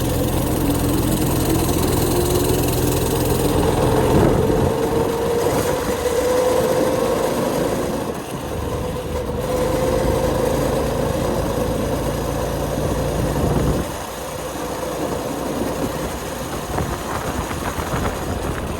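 Go-kart's small Kawasaki 4 hp engine running under throttle, its pitch climbing steadily for several seconds as it picks up speed, dipping about eight seconds in and climbing again, then easing off about fourteen seconds in.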